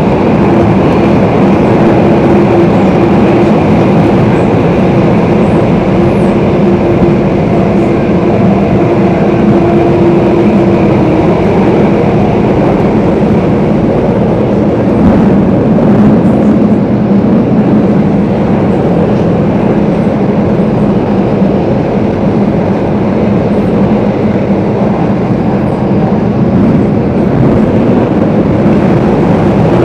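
Singapore MRT Circle Line train running through a tunnel, heard from inside the carriage: a steady loud rumble with a humming tone that gives way to a lower hum about a third of the way in.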